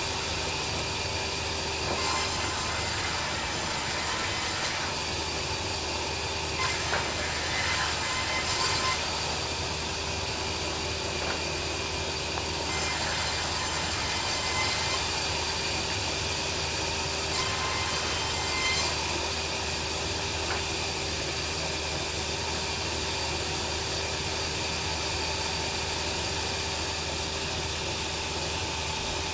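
Band sawmill running steadily with a constant hum. In the first twenty seconds there are four stretches of harsher, high-pitched sawing noise, each a couple of seconds long, as the blade cuts through timber. After that the saw runs on evenly.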